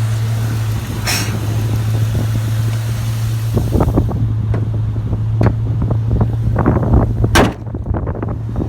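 Ford Mustang GT's V8 idling steadily right after a tune-up with new spark plugs, running smoothly with all cylinders firing. From about halfway in, a rapid run of thumps and pops sits over the idle, the sharpest one near the end.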